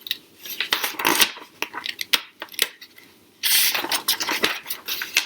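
Scattered small clicks and paper rustles of a picture book being handled, with a longer rustle about three and a half seconds in, as of a page being turned.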